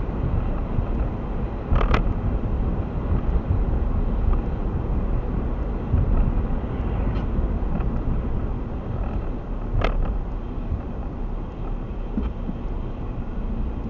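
Steady road and engine noise heard inside a moving car's cabin, with two brief sharp knocks, one about two seconds in and another near ten seconds.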